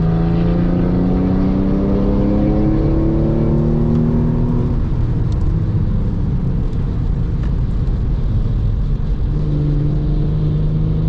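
Porsche 996 Carrera's 3.6-litre flat-six, heard from inside the cabin, rising in pitch as the car accelerates for about five seconds, then falling back to a low rumble as the driver lifts off. The engine note steadies and picks up again near the end, over a constant hiss of tyres on the wet track.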